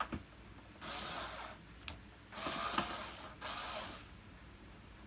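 Screws being undone from the plastic floor plate of a Hoover Purepower upright vacuum: a click, then three short, noisy mechanical bursts of about a second each.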